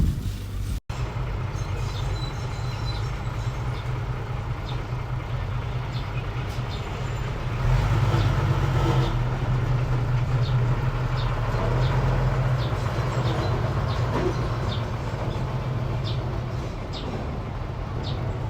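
Diesel engine of earth-moving machinery running steadily, swelling louder about eight seconds in and again around twelve seconds, with faint scattered clicks over the drone.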